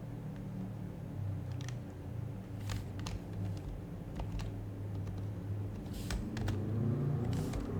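Occasional scattered keystrokes on an HHKB Type-S silenced-Topre keyboard: a few soft, irregular clicks with pauses between them, over a steady low hum.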